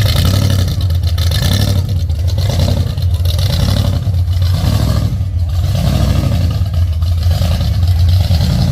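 Gasser-style hot rod's engine running loud and low as the car drives off, with a regular loping rise and fall.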